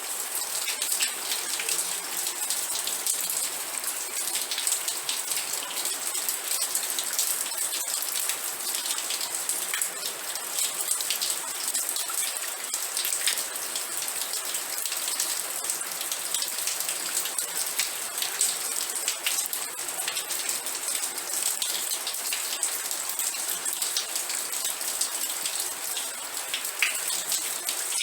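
Steady rain falling, many individual drops pattering on a hard surface.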